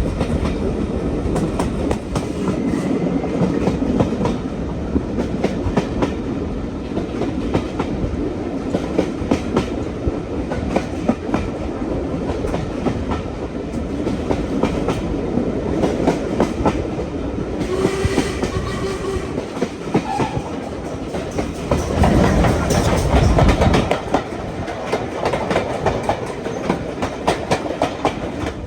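Train running on jointed track, its wheels giving a steady clickety-clack over the rail joints with a continuous rumble. A short pitched tone sounds about 18 seconds in, and the rumble grows louder for a couple of seconds about 22 seconds in.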